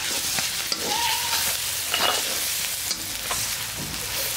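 Chopped onion with ground chili and turmeric sizzling in hot oil in a pan, with short scrapes and knocks of stirring.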